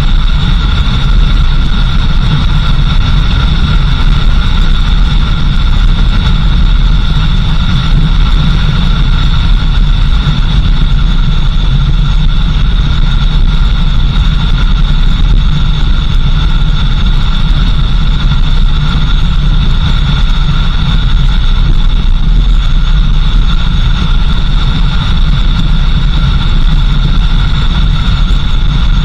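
Four-wheel-drive vehicle driving, heard loud and close: a steady low rumble with a steady high-pitched whine above it.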